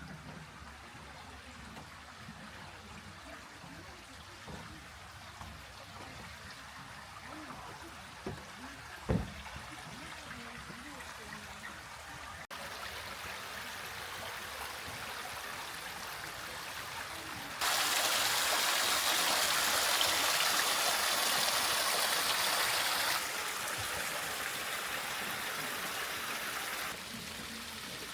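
Steady rushing of water. The level and brightness jump abruptly several times, loudest for about five seconds past the middle, with a single knock about nine seconds in.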